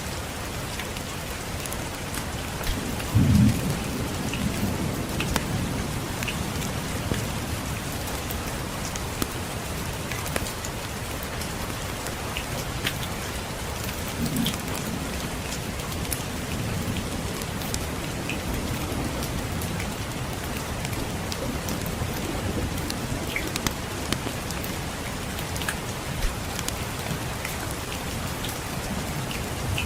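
Steady rainfall with scattered sharp crackles, and low rumbles of distant thunder, the loudest about three seconds in and more around the middle.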